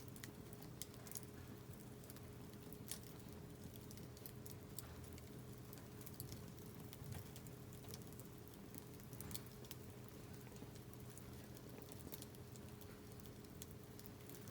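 Scrap SPF softwood campfire burning, with faint, irregular crackles and pops, over a steady low hum.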